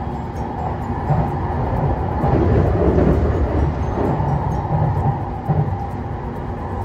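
Inside a JR Kyushu 813 series electric train running at speed: a steady rumble of wheels and running gear with a faint steady tone. The noise swells louder for a couple of seconds in the middle.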